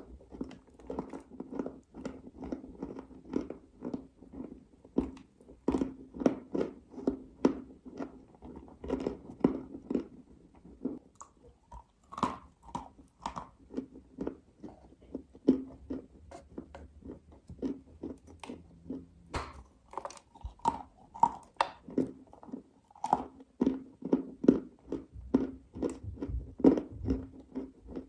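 A person chewing dry clay close to the microphone: crisp crunches about one to two a second, with a couple of brief pauses between mouthfuls.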